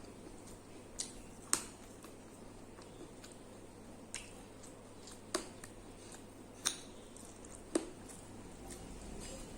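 A person chewing food, with about six sharp, wet mouth clicks and smacks spaced irregularly.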